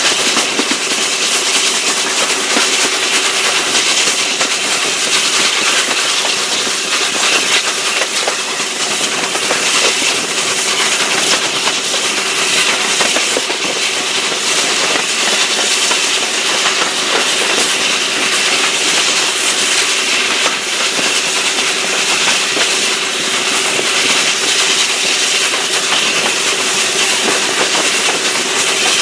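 Steam-hauled train running at speed, heard from an open carriage window: a steady rush of wind and wheel-on-rail noise with faint clicking from the rail joints and a steady note underneath.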